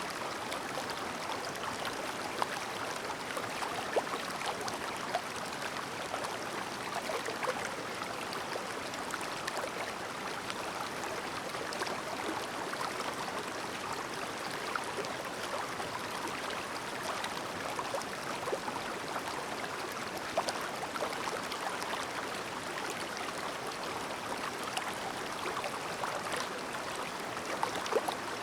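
Shallow clear-water stream babbling steadily over stones, with small splashes and trickles running through it.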